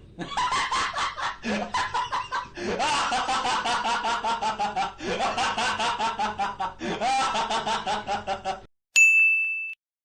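A laughing sound effect: a long, fast run of rapid 'ha-ha' pulses, about four or five a second, that breaks off and starts again several times, each run opening on a rise in pitch. A short bell-like ding sounds near the end.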